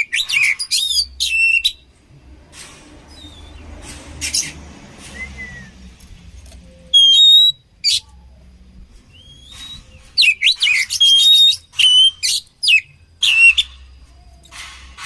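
Oriental magpie-robin singing in bursts of loud, rapid whistles and chattering notes. The bursts come near the start, around seven seconds in, and again from about ten to nearly fourteen seconds.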